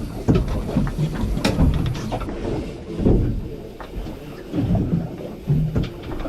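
Low rumble of wind buffeting the microphone on an open boat, swelling and easing irregularly, with scattered knocks and thumps.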